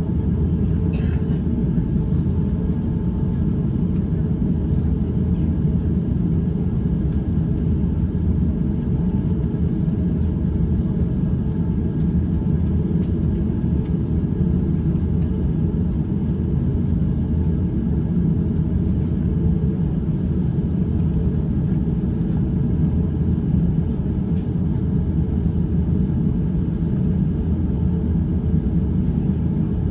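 Steady low rumble of an Airbus A350-900 heard from inside the cabin while taxiing, its Rolls-Royce Trent XWB engines at low thrust along with the rumble of the wheels on the taxiway.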